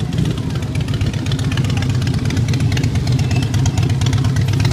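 Motorcycle engines running at low revs, a steady deep rumble.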